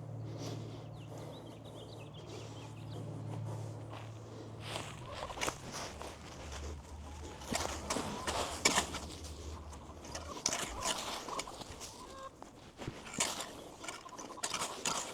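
Rake strokes scraping and rustling through leaf litter and dirt in irregular bursts, starting about five seconds in, with hens clucking and a low steady hum underneath.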